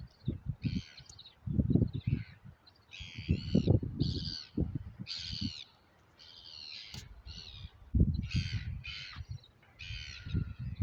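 Birds giving short, harsh calls over and over, about one or two a second, with a low rumbling noise coming and going underneath.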